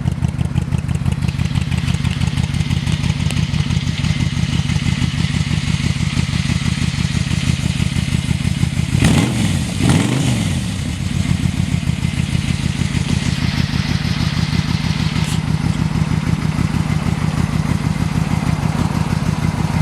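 1998 Yamaha Royal Star's 1300 cc V4 engine idling steadily, with two quick blips of the throttle about nine and ten seconds in, after which it settles back to idle.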